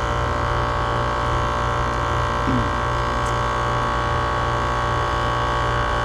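Air-conditioner outdoor unit running, its compressor humming steadily with a strong low hum and a steady higher tone near 1 kHz. The compressor is working against really high head pressure, which makes it surge.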